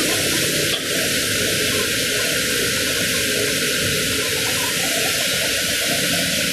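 Water spraying in a steady rush, with a brief dip a little under a second in.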